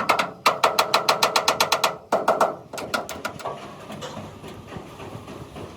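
Rapid, evenly spaced mechanical strikes on metal, about nine a second, typical of an air hammer working sheet metal. The run breaks off twice and stops a little after three seconds in, leaving low workshop noise.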